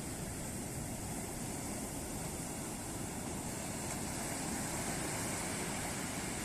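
Ocean waves breaking on a beach: a steady rushing wash of surf that swells a little past the middle.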